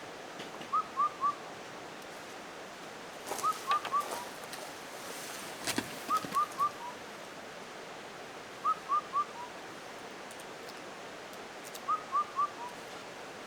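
A bird calls a short whistled phrase of three quick notes, sometimes with a lower fourth note, five times at intervals of about two and a half seconds.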